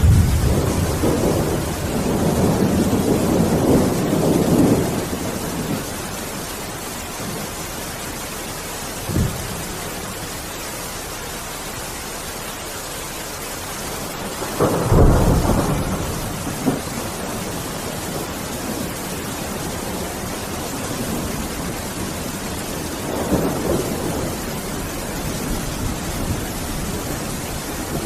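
Steady heavy rain hissing through a thunderstorm, with rolling thunder in the first few seconds, a short sharp crack about nine seconds in, a loud clap and rumble about fifteen seconds in, and a softer roll near the end.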